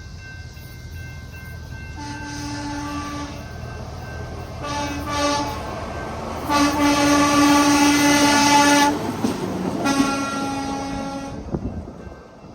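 Horn of a hi-rail truck on railway tracks, a single note sounded in four blasts, the third the longest, over a low rumble from the vehicle moving on the rails.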